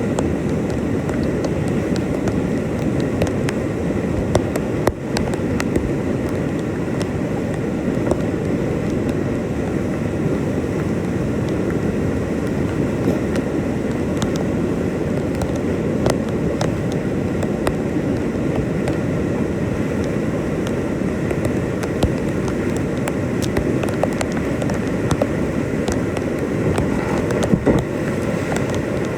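Steady rush of whitewater rapids around a kayak, with scattered short sharp knocks.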